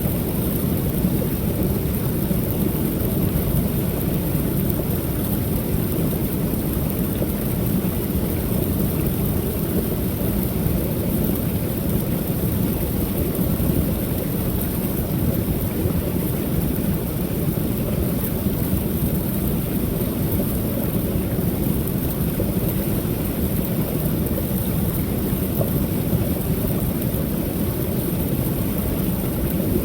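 Waterfall on a creek: a steady, low rush of falling water.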